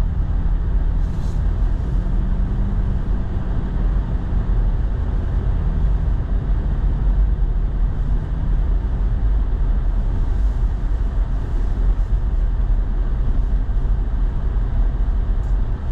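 Pickup truck driving, heard from inside the cab: a steady low rumble of engine and road noise with a faint engine hum.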